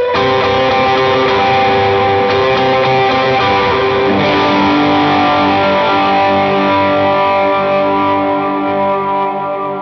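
Stratocaster electric guitar through an HX Stomp preset playing sustained, ringing overdriven notes, with an AC30-style Matchstick Channel 1 amp model, tape delay and hall reverb. The notes change about four seconds in and die away near the end.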